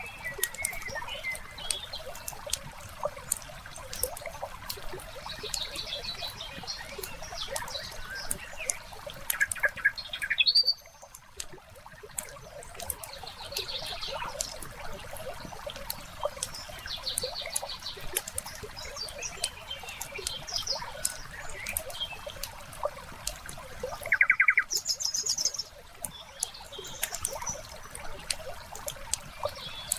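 Wood fire crackling with many small sharp pops over a soft steady hiss, while songbirds chirp and call now and then, including a short fast trill near the end.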